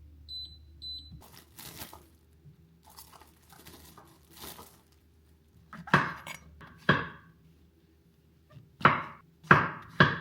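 Two short, high electronic beeps from a kitchen appliance, then rustling and crinkling of packaging and several sharp knocks of kitchenware being handled, over a faint low hum.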